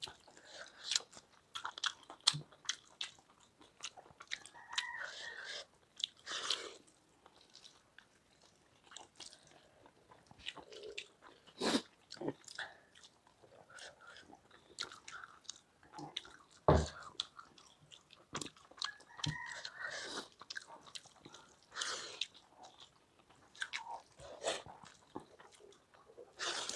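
Close-up eating sounds: two people chewing mouthfuls of rice and palak paneer eaten by hand, with many small clicks. A few louder knocks stand out, the loudest about two-thirds of the way through.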